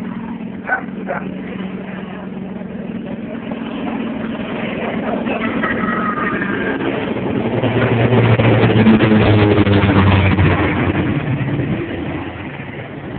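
Firefighting airplane's engines growing louder as it passes low overhead, loudest about eight to ten seconds in, then fading away.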